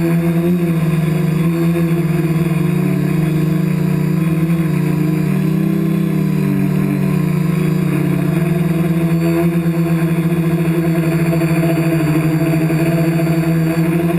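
Remote-control helicopter's motor and rotor running steadily, with a strong low hum whose pitch wavers slightly around the middle.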